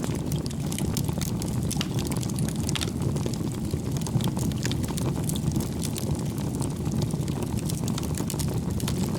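Wood fire burning in a fireplace, with a steady low rumble of flames and frequent small crackles and pops from the burning firewood.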